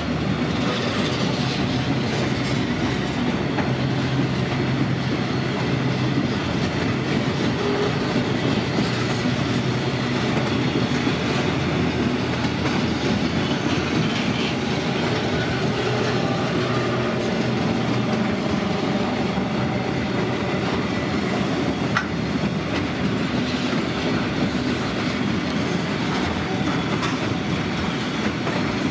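Container freight train's flat wagons rolling past, a steady noise of steel wheels running on the rails, with one sharp click about three-quarters of the way through.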